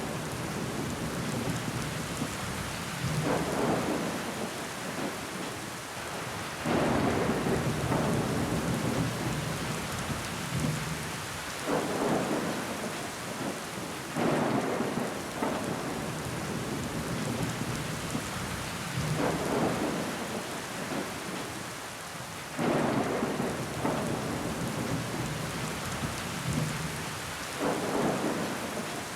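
Steady rain on a window pane, a continuous hiss that swells louder every few seconds in gusting surges.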